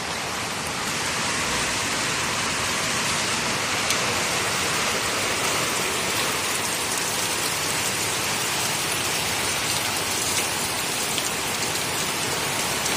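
Heavy rain pouring steadily on banana plants and the ground, a dense, even hiss of falling water.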